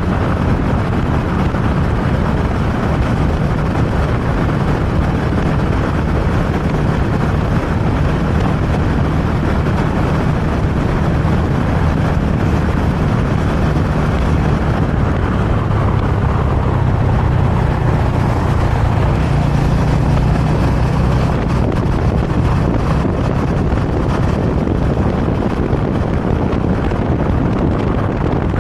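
Motorcycle engine running while riding, under a steady rush of wind on the microphone, the engine note shifting a little partway through.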